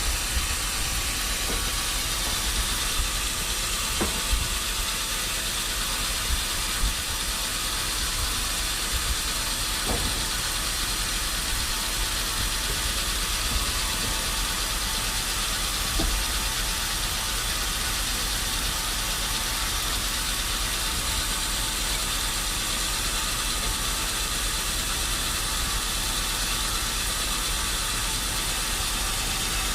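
Sawmill machinery running steadily, with a few faint knocks.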